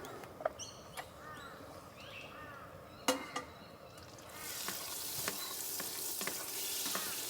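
Food frying in a hot pan: a steady sizzle sets in about four seconds in. Before it come a few light clicks and one sharp knock.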